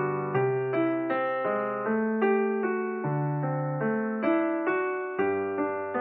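Background music: a gentle piano or electric-piano piece, notes and chords struck a few times a second and left to ring and fade.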